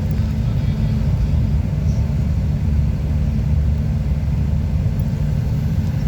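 A car driving at speed: a steady low rumble of engine and road noise.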